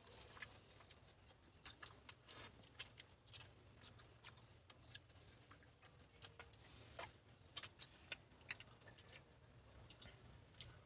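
Near silence with faint, scattered mouth clicks and smacks of people chewing food.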